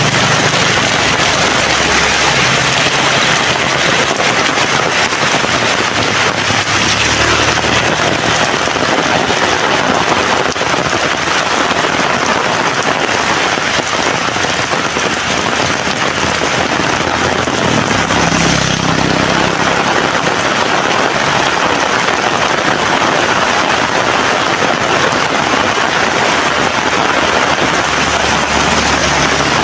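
Heavy rain falling in a steady downpour, a dense even hiss. A low hum rises and fades a few times.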